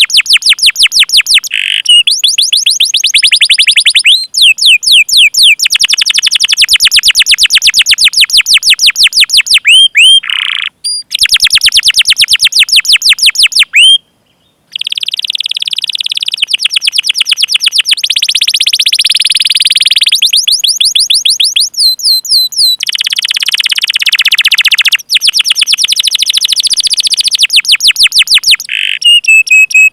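Domestic canary singing a long song of fast rolling trills and repeated chirps, high-pitched and loud, with a brief pause about halfway through.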